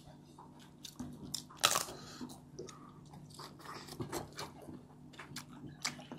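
Crunchy biting and chewing of fried chicken wings and papad: a string of irregular crunches, the loudest about one and a half seconds in.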